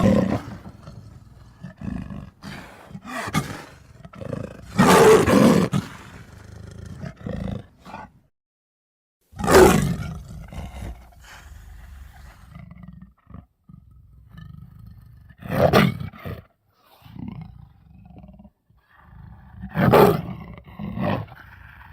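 A series of big-cat style roar sound effects: five loud roars spaced about five seconds apart, with quieter growls between them and a short break of silence about eight seconds in.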